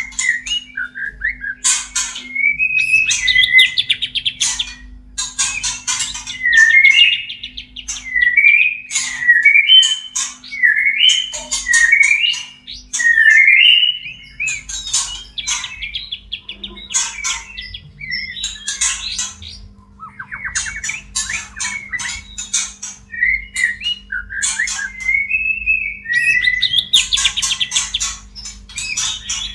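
White-rumped shamas calling in courtship: short whistled and warbled phrases and quick trills, broken up again and again by harsh rasping chatter.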